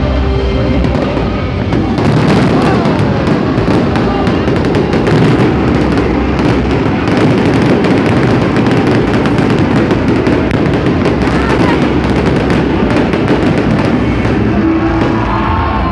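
Fireworks display: a dense, continuous run of bangs and crackles that thickens about two seconds in, with music playing underneath.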